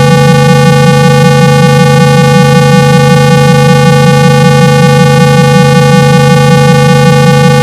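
A loud, steady 165 Hz buzzing tone with many overtones, played to shake water out of a phone's speaker and clear muffled sound.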